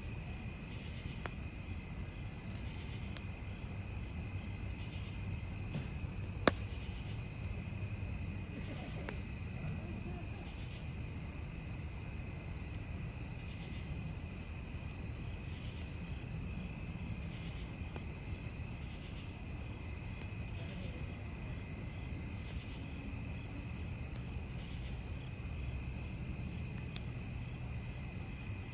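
Crickets chirping steadily over the low crackle of a burning wood campfire, with one sharp pop from the fire about six and a half seconds in.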